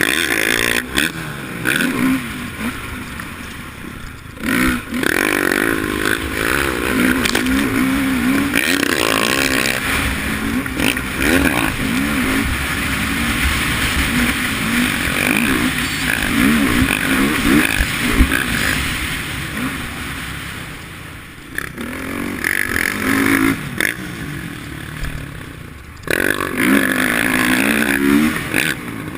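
Dirt bike engine revving hard and easing off again and again as it is ridden around a motocross track. The pitch climbs and falls through the gears, with short throttle-off dips a few times.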